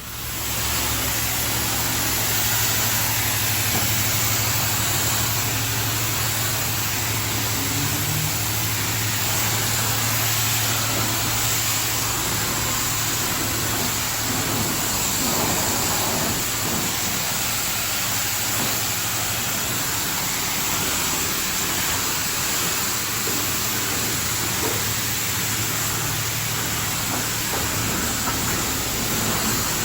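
High-pressure spray wand at a self-serve car wash spraying water onto a car, a steady hiss that starts suddenly and holds throughout, over a constant low hum.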